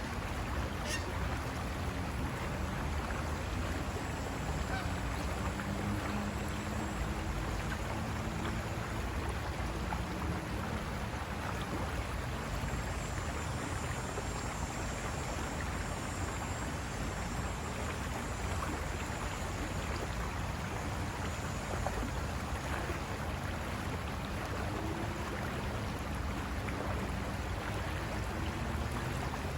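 River water rushing steadily over rocks, with faint low drawn-out calls or tones that rise and fall in a few stretches.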